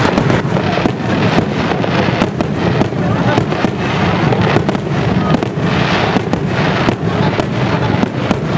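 Fireworks display in a rapid barrage: many bangs and crackles a second over a continuous rumble, with no pause.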